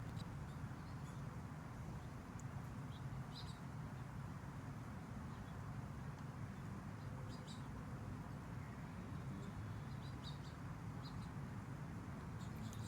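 Outdoor ambience: a steady low background rumble with faint, brief bird chirps every few seconds.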